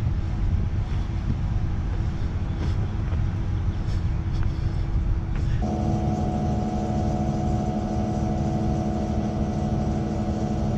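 Heavy engine running at the concrete pump, a steady low rumble with a few faint clicks. A little over halfway through it steps up to a steadier, higher-pitched drone, as the engine is brought up to speed for pumping.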